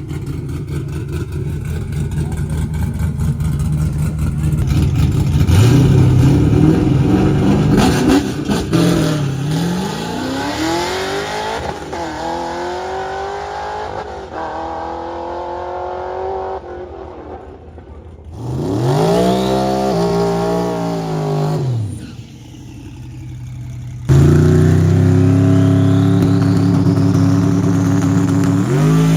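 Drag-racing cars' engines at full throttle: engine notes climbing in pitch as cars accelerate, one rev that rises and falls about two-thirds of the way through, and a loud steady engine note that starts suddenly near the end.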